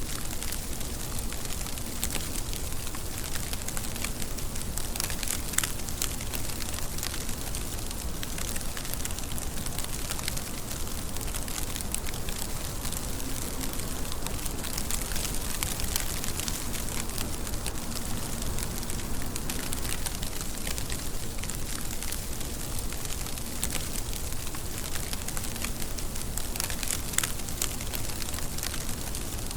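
Steady rain: an even hiss with many sharp, crackling drop ticks scattered through it.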